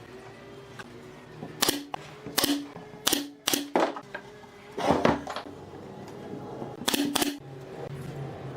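A series of about seven sharp clacks at uneven gaps, two of them in a quick pair near the end, each with a short ring, over a low steady hum.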